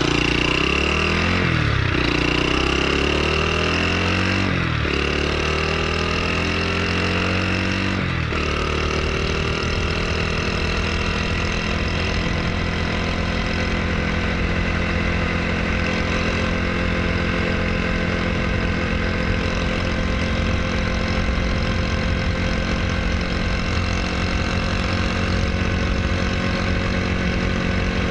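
Honda Super Cub's small single-cylinder engine, bored up with a 110cc kit, blipped three times, the revs sagging between blips, then idling steadily.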